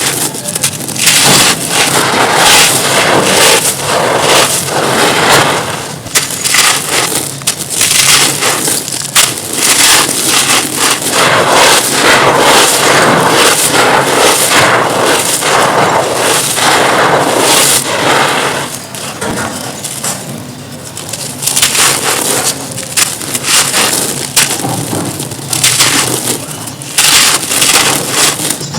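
Dry, dusty crumbly chunks being crushed and crumbled, a dense run of crunching and crackling that eases off for a few seconds about two-thirds of the way through, then picks up again.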